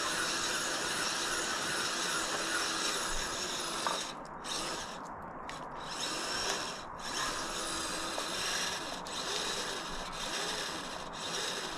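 Kyosho Blizzard RC tracked vehicle driving: the high whine of its dual Traxxas 380 electric motors with the metal tracks rubbing and rattling. The whine drops out several times around the middle, then carries on with its pitch rising and falling.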